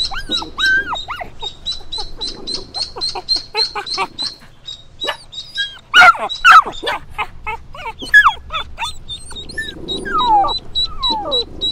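A dog whimpering and yipping in high, falling cries, loudest about halfway through, over a fast, even run of short high-pitched peeps.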